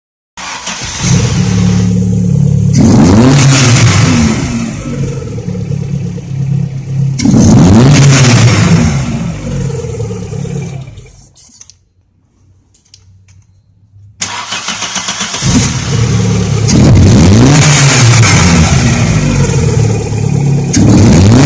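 VW Vento's 1.8-litre four-cylinder petrol engine, freshly fitted with a new timing belt, running and being revved up and back down twice. About halfway through it dies away and stops; it is started again a couple of seconds later and revved twice more.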